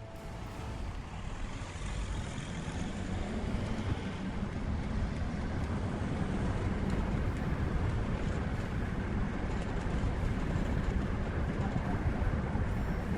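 Heavy vehicle running, a steady low rumble with a noisy wash on top, growing louder over the first couple of seconds and then holding steady.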